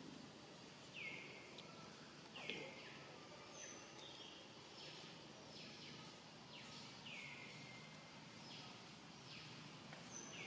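Faint bird calls over quiet forest ambience: a call that drops in pitch and then levels off, repeated about every second, with shorter, higher notes between.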